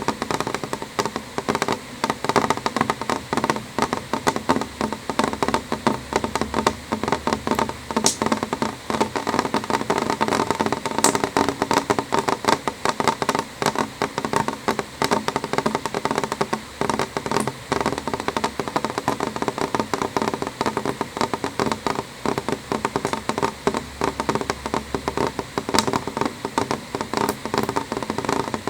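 Rain pattering on a window pane: a dense, irregular tapping of drops, with a few sharper, brighter ticks standing out here and there.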